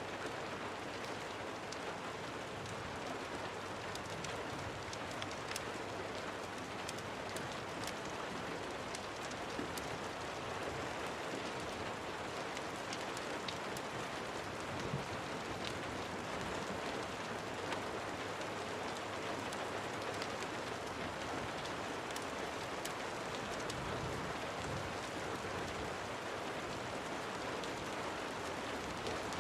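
Steady rain falling, an even dense hiss with many small sharp ticks scattered through it.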